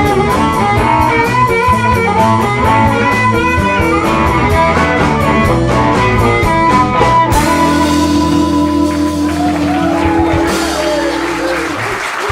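Live blues band with electric guitar and drums playing the last bars of a song, then landing on a final chord about seven seconds in that is held and rings out. Applause starts to rise near the end.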